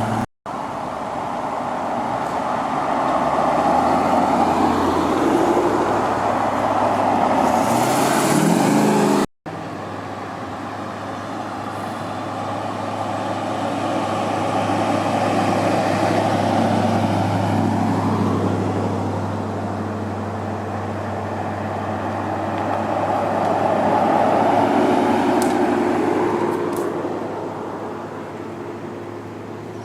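Motor vehicle engines running, with one revving up about eight seconds in. The sound drops out briefly twice, near the start and after about nine seconds.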